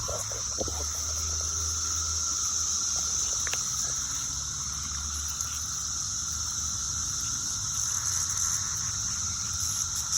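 Steady, high droning chorus of periodical cicadas, with a few faint ticks from chickens pecking.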